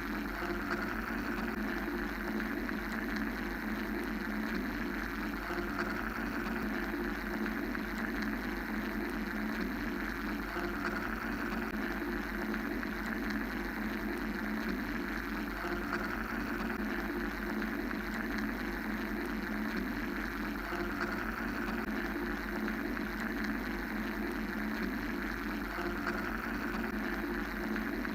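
Steady mechanical white-noise drone: a low hum under a hissing band that swells and eases about every five seconds.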